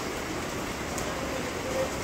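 Steady rain falling on wet pavement, a continuous even hiss.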